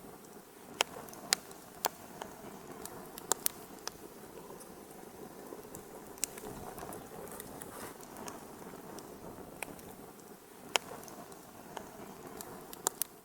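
Wood fire burning in a fireplace: a steady soft rushing of flames with irregular sharp crackles and pops scattered through it, a few of them louder.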